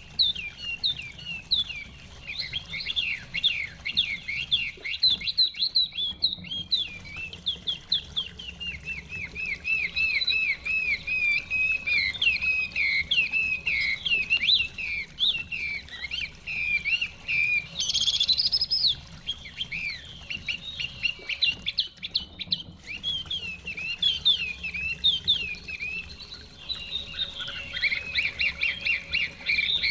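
Chinese hwamei singing: a long, varied song of rapid whistled notes, sweeping up and down and repeated in quick phrases. It breaks off briefly twice, about six seconds in and again a little past the middle.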